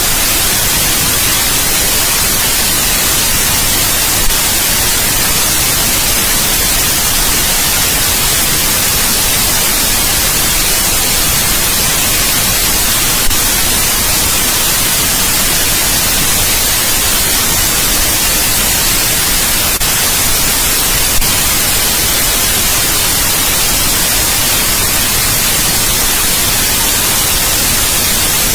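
Steady, unchanging white-noise hiss, brightest in the treble, with a few faint clicks scattered through it.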